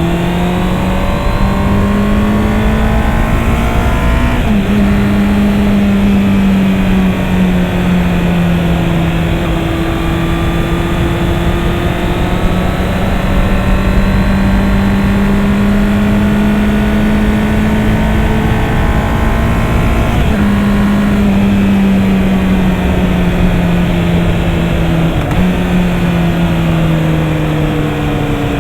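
Honda CB650R's inline-four engine running under way, its note rising and falling gently with the throttle, with short breaks in the note about four and a half and twenty seconds in and easing off near the end. Wind noise on the helmet camera runs under it.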